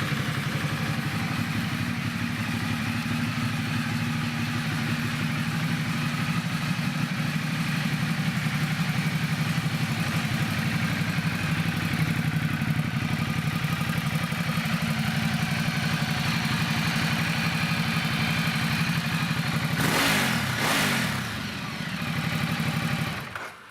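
2012 Ducati Multistrada 1200S's L-twin engine idling steadily, running smoothly. It is revved briefly twice about twenty seconds in, then switched off near the end.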